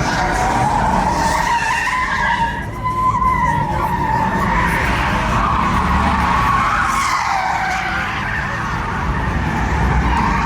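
Tyres squealing during a burnout or donut, a continuous wavering screech over a running engine.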